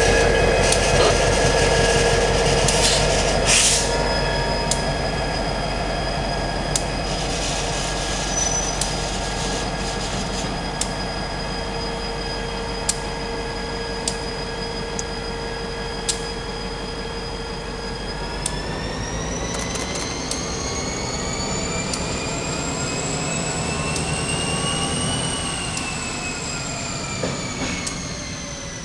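Freight cars and a CSX diesel-electric locomotive with a slug rolling slowly past, wheels ticking over rail joints and squealing in steady tones. About two-thirds of the way through, a whine from the moving train climbs steadily in pitch for several seconds and then falls again near the end, as the engine works to kick cars into the yard ladder and then eases off.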